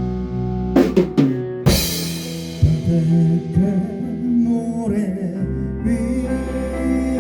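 A live rock band playing an instrumental passage, with sustained bass and chordal notes. A drum-kit fill of several sharp hits comes about a second in, then the band plays on into the next section.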